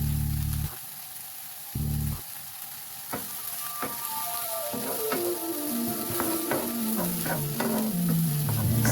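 Food sizzling in hot oil as it is stir-fried, with a steady hiss and scattered clicks of the utensil against the pan. Instrumental music plays over it.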